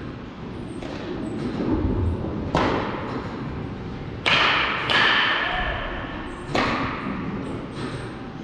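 Four sharp smacks of baseballs struck at baseball practice, irregularly spaced, each ringing out with an echo; the second, about four seconds in, is the loudest.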